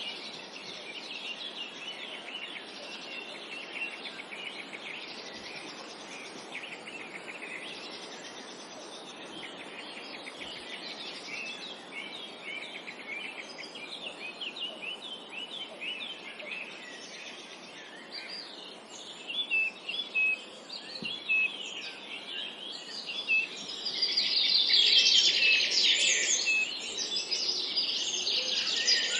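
Several songbirds chirping and singing over a soft background hiss, the chorus growing denser and louder in the last few seconds.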